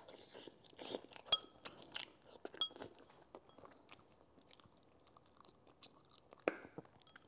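Close-up chewing and mouth noises of a person eating braised chicken, with a number of small clicks. Twice, about a second and a half in and again a second later, chopsticks clink against a porcelain bowl with a short ring.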